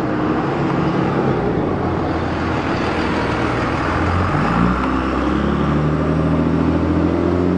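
A motor vehicle engine running over steady outdoor traffic noise, its pitch rising a little about halfway through.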